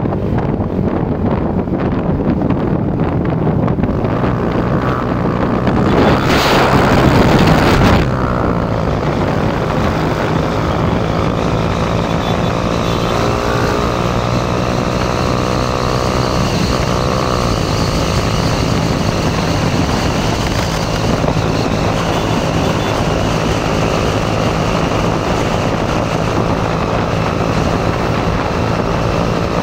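Motorcycle engine running steadily at speed, with wind noise over it. A louder rush of noise comes about six seconds in and lasts about two seconds.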